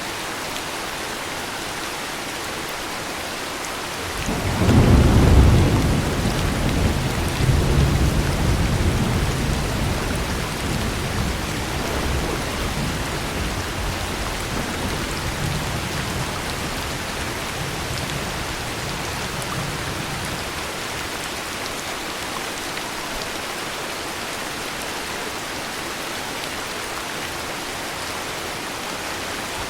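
Steady heavy rain, with a thunderclap about four seconds in whose low rumble rolls on and slowly fades over the following fifteen seconds or so.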